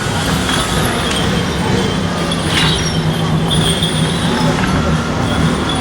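A motor vehicle's engine running steadily, mixed with street noise and a few short clicks.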